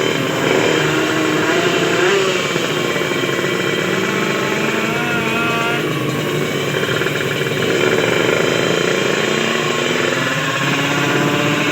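Drag-race motorcycle engine running at around idle, its pitch wavering slightly with light throttle changes.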